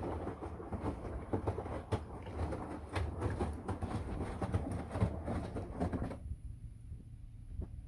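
Washing machine running: a steady low hum with the tumbling load knocking and clattering irregularly. The clatter cuts off suddenly about six seconds in, leaving only the low hum.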